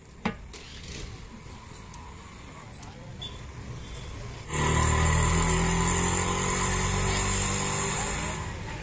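Street noise with a motor vehicle engine running close by. About halfway through, a loud steady hiss with a low engine hum starts suddenly and eases slightly near the end.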